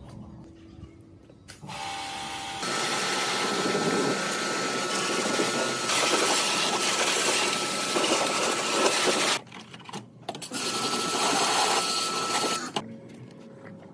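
A small electric power tool running, starting about two seconds in, stopping briefly about nine and a half seconds in, then running again for a couple of seconds before cutting off near the end.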